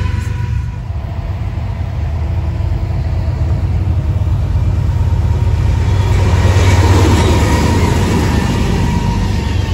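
A BNSF freight train's diesel-electric locomotives approach and pass close by. The low engine rumble builds steadily and is loudest as the lead units go past about seven seconds in.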